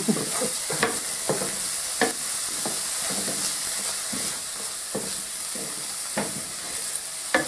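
Chopped onion and garlic sizzling in olive oil in a frying pan, being stirred round, with the utensil knocking and scraping against the pan at irregular moments.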